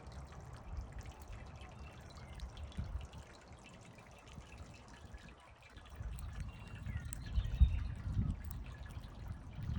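Squirrel gnawing and chewing nuts: faint small crunches and clicks. From about six seconds in there are low bumps, with one sharp knock a little before eight seconds.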